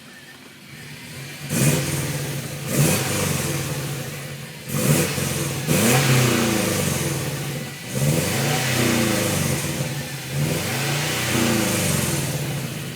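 1998 Subaru Impreza 2.5 RS's EJ25D flat-four engine, fitted with Delta 1500 cams, Borla replica headers and a CNT cat-back exhaust, idling and then revved in a series of sharp throttle blips, with a longer rev held in the middle, dropping back toward idle near the end.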